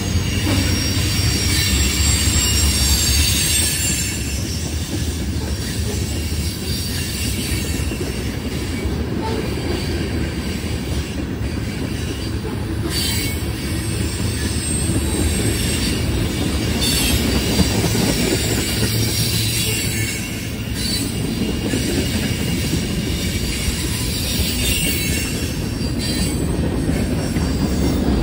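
A train's cars rolling steadily past. The steel wheels squeal thinly on the rails over a low rumble, with an occasional click from the wheels.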